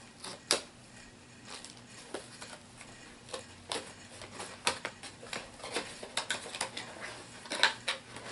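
Irregular clicking and crinkling of plastic packaging as a HeroClix booster pack is opened and its miniatures handled, with sharp ticks every half second or so and a louder cluster near the end.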